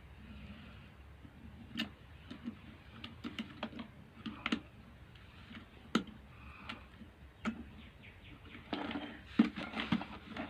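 Irregular small clicks and taps of the hard plastic parts of an electric kettle being handled and fitted together, with a denser run of clicks and rattling about nine seconds in.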